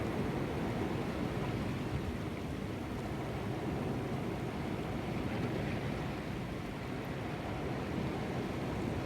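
Steady sea surf with wind on the microphone, an even low rushing noise with no distinct events.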